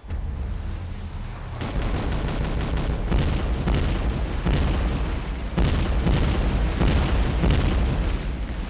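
Naval cannon fire and shell explosions from an animated battle: a low rumble, then a rapid run of repeated booms and blasts about a second and a half in, continuing throughout.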